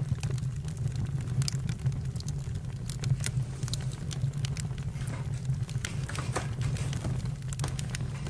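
Campfire crackling: a steady low rumble of burning with frequent sharp pops and snaps at irregular intervals.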